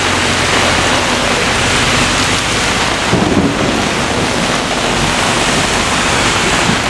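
Heavy thunderstorm rain pouring steadily, with a short low rumble about three seconds in.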